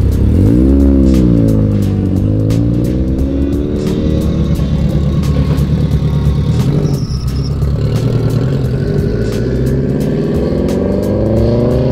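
Sports car engines revving as cars drive away one after another: one engine revs up sharply and eases off, then the engine note climbs slowly as a car accelerates off. Background music with a beat plays underneath.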